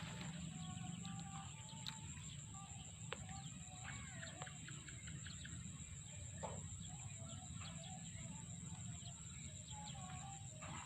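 Many small birds chirping and calling, short scattered calls throughout, over a steady high-pitched tone and a low rumble.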